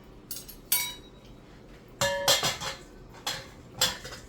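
Kitchen dishes and utensils clinking and knocking: about five sharp clinks, some with a brief metallic ring, the loudest cluster about two seconds in.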